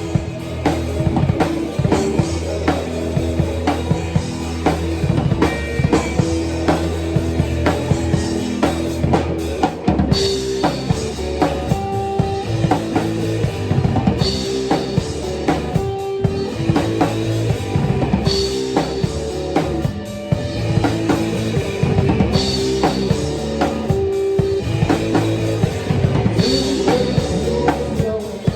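Live band playing an instrumental passage: a drum kit with a steady beat of kick and snare over sustained bass and guitar notes, with bright accents about every four seconds from about a third of the way in.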